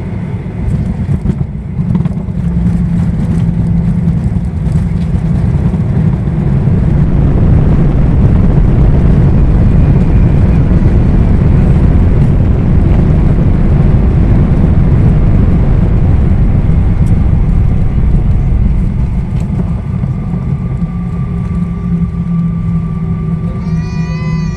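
Boeing 737-800's CFM56-7B jet engines and airframe rumbling loudly, heard from inside the passenger cabin. The rumble swells about two seconds in, holds at its loudest, then eases off in the last several seconds, as on a landing roll.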